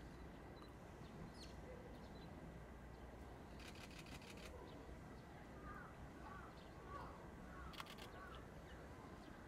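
Near silence with a steady low hum. A few faint bird chirps come between about five and a half and seven and a half seconds in, and there are two brief clusters of faint clicks, one about four seconds in and one near the end.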